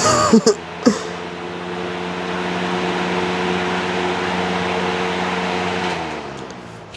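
Lasko B20200 box fan running with a broken blade: a steady motor hum under a rushing air hiss, which winds down and fades near the end. A brief squeak and a couple of sharp clicks come in the first second.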